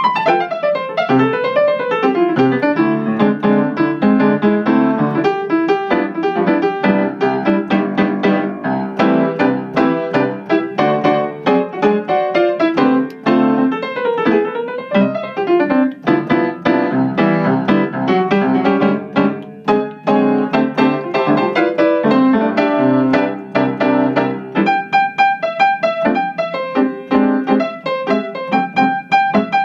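Piano played fast, with dense runs of notes sweeping up and down the keyboard; about 25 seconds in it shifts to steadier chords higher up.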